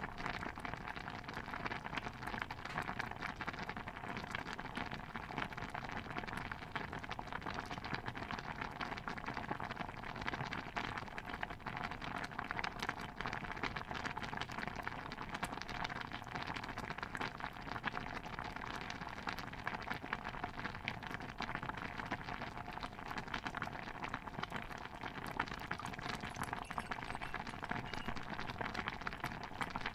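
A stew pot bubbling steadily, a dense stream of small pops and gurgles that keeps an even level throughout.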